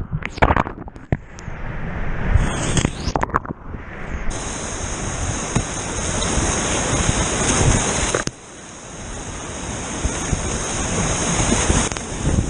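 Rushing whitewater heard close on a kayaker's camera microphone, broken up with short gaps and a few knocks in the first four seconds, then a steady rush that dips suddenly a little past the middle and builds again.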